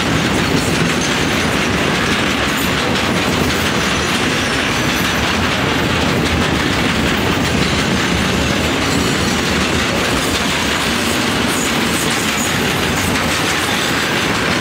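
Freight train of container flat wagons passing close by at speed: a loud, steady noise of the wagons' wheels running over the rails, with no break.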